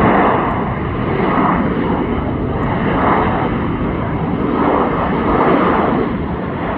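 Jet airliner's engines heard from the ground, a loud rushing noise that swells and eases every second or two.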